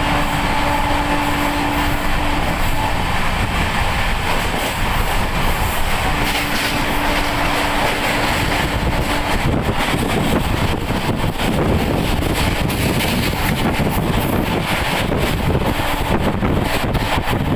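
Paschim Express passenger train running, heard from on board: a steady loud rumble of wheels on rail. A steady low tone sounds twice in the first half, and from about ten seconds in, quick clicks and knocks from the wheels pile up over the rumble.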